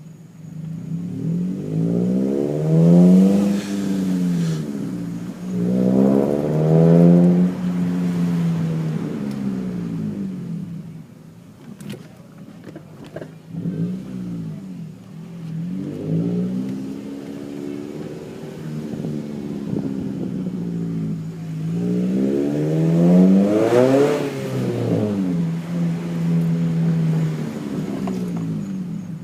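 Scion tC's four-cylinder engine through an aftermarket exhaust, accelerating several times in moderate pulls, its note rising in pitch and then settling back to a steady drone between pulls.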